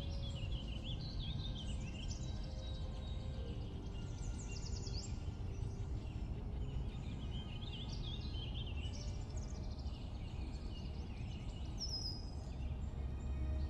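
Birds singing outside, with repeated chirps, quick trills and warbling phrases, over a steady low background rumble.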